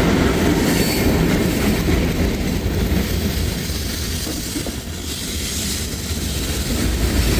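Freight train of coal cars rolling past close by, a steady rumble of steel wheels on rail that eases slightly midway and builds again near the end.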